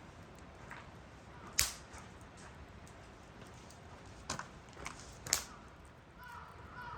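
Campfire crackling: four sharp pops, the loudest about a second and a half in and three more close together around four to five seconds in.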